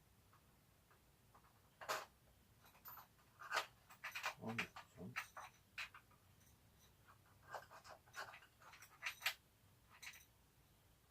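Faint, scattered clicks and scrapes of small hardware and plastic parts being handled: a washer and nut being worked into a scooter's plastic fuel tank mount.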